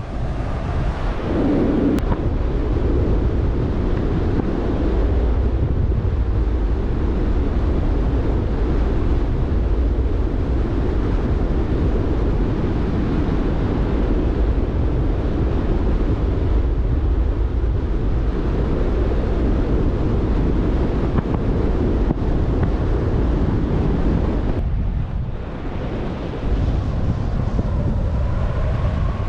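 Strong wind buffeting the camera microphone in paragliding flight: a loud, steady rush heaviest in the low end, easing briefly about 25 seconds in.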